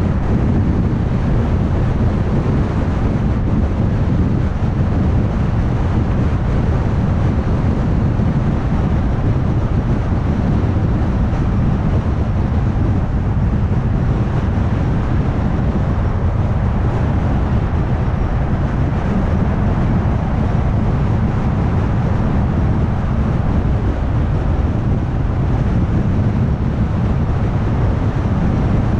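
A car cruising at highway speed: steady road noise of tyres on the road and the engine, a constant low rumble that holds even throughout.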